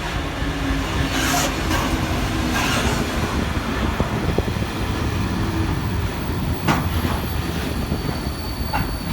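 Engineering freight train passing on the rails, wheels rumbling steadily, with bursts of wheel squeal in the first few seconds and a few sharp clicks later.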